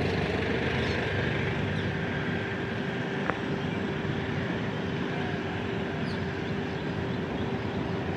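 Locomotive running steadily, a continuous mechanical rumble with a steady hum, and one sharp click about three seconds in.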